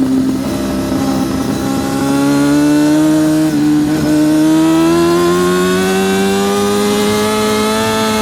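Yamaha R6 (RJ03) 600cc inline-four sport-bike engine under hard acceleration, its note climbing slowly and steadily in pitch as the revs build in one gear.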